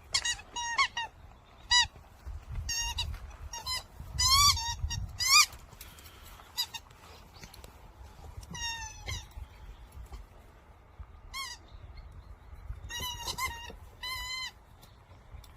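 A dog's squeaky toy ball squeaks in short, irregular bursts, often two or three in quick succession, as a Jindo puppy chews and squeezes it. The loudest cluster comes about four to five seconds in.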